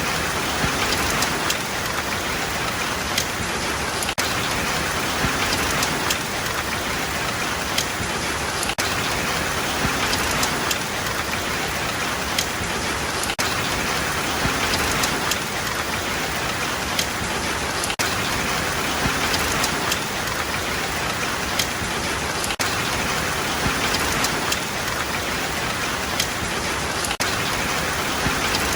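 Steady rain falling: a dense, even hiss with scattered sharper drop strikes.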